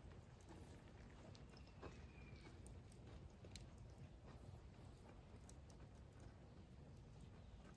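Near silence: a faint low background hum with a few scattered soft clicks and one faint falling whistle-like tone about two seconds in.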